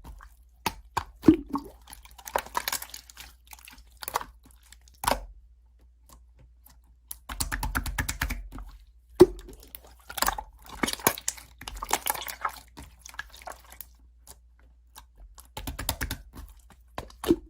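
Close, crisp crunching and clicking in bursts of about a second, separated by short gaps.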